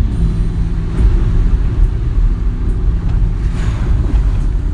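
Motor vehicle running: a steady low engine and road rumble, with a brief hiss about three and a half seconds in.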